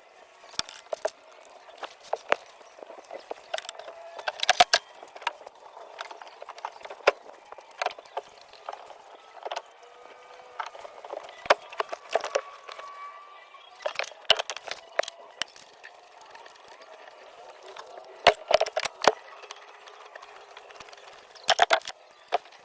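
Irregular sharp clicks and knocks, with louder clusters about a fifth of the way in, about four fifths of the way in, and near the end.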